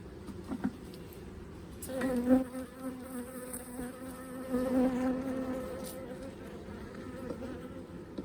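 Honey bee buzzing close to the microphone: a steady-pitched hum comes in about two seconds in, swells and eases twice, then fades out after a few seconds.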